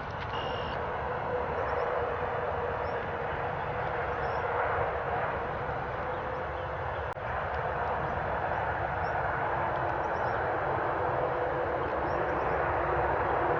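A steady, distant mechanical drone like far-off traffic or an aircraft, with a few faint, short, high bird chirps scattered over it and a small click about seven seconds in.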